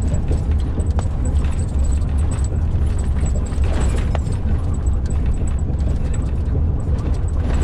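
Steady low rumble of a truck's engine and tyres heard inside the cab, running over the old original concrete motorway surface, with a few sharp knocks and rattles and a faint high-pitched ticking.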